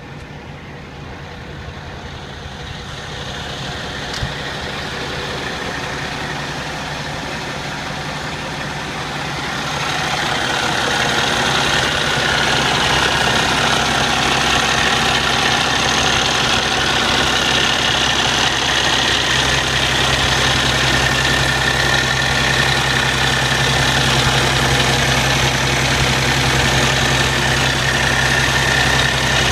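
Cummins ISX six-cylinder diesel in a Kenworth T660 idling steadily, growing louder over the first ten seconds and then holding even. A single short click comes about four seconds in.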